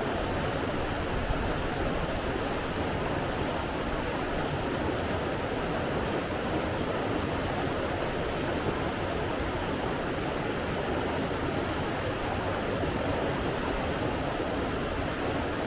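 Steady rush of running water, an even, unbroken noise with no distinct events.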